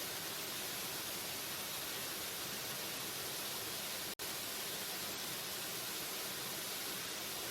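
Steady hiss of a waterfall's rushing water, bright and even, with no changes in its flow. About four seconds in the sound cuts out for an instant and comes straight back.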